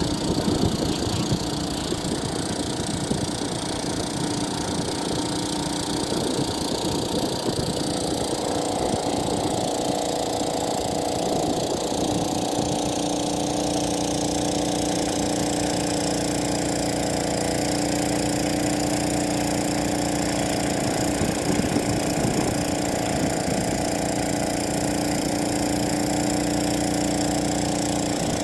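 Agricultural spraying drone's rotors humming steadily, stepping up in pitch about eight seconds in and then holding.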